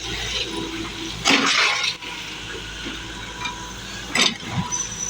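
Water gushing, with two louder surges: one lasting about half a second, just over a second in, and a brief one about four seconds in.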